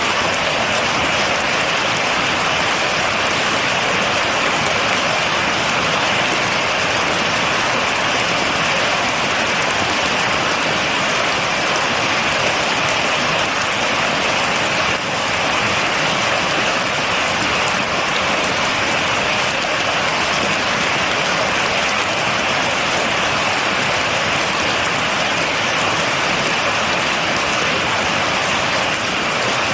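Steady rain falling without thunder: an even, unbroken hiss full of fine drop patter.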